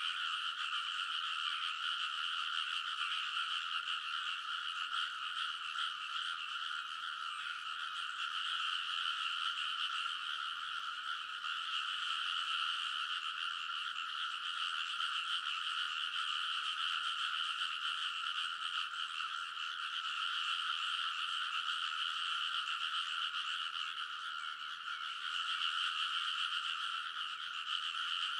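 A dense chorus of many frogs calling at once in a rice paddy, their croaks merging into one continuous, steady din that swells and dips a little in loudness.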